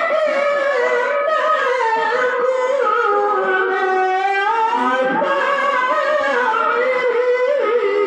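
A qari reciting the Quran in melodic tilawah style: one voice holding long, wavering melismatic notes that glide up and down in a high register.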